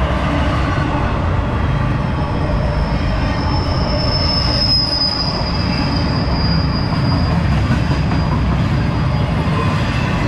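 Intermodal freight train's well cars rolling past close by: a steady heavy rumble of wheels on rail. A thin, high steel wheel squeal rises about two seconds in, is loudest around the middle and fades out near the end.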